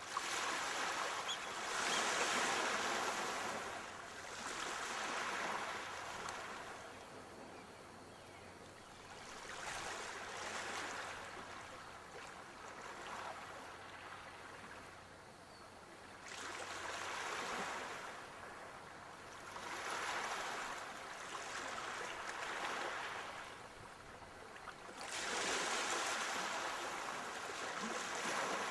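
Sea waves breaking and washing on a shore, a hiss of surf that swells and fades every few seconds, with the biggest surges about two seconds in and near the end.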